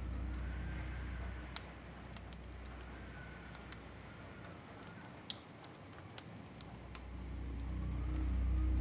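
Fireplace crackling: scattered sharp pops and snaps over a low ambient drone that fades in the middle and swells up near the end.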